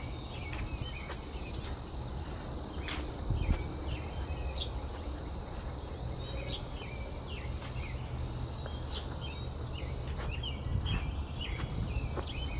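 Small birds chirping here and there with short calls over a low steady outdoor rumble, with a faint steady high tone throughout and one sharp click about three seconds in.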